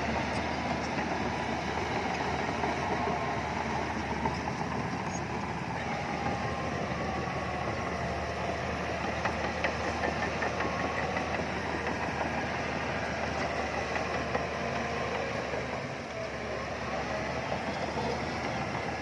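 Heavy diesel earthmoving machinery running steadily, most likely the bulldozer's engine at work.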